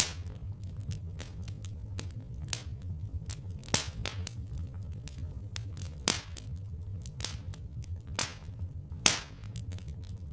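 Wood fire crackling, with irregular sharp pops of varying strength, the loudest about four and nine seconds in, over a steady low rumble.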